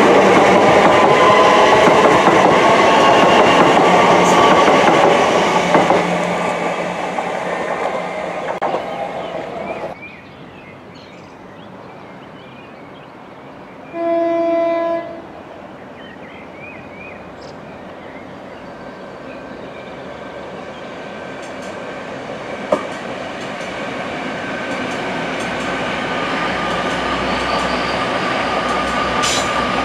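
A GWR electric multiple unit rumbles and clatters along the track close by, fading away over the first ten seconds. About halfway through, a distant train horn sounds once, a single steady note lasting about a second. Then a second train's running sound grows steadily louder as it approaches.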